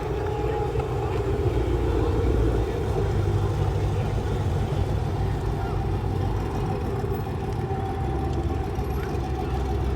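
A car engine idling steadily, a low even rumble, with faint voices in the background.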